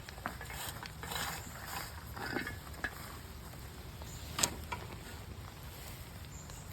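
Rustling and scraping from leaf clean-up work, with a few sharp clicks and knocks; the sharpest knock comes about four and a half seconds in.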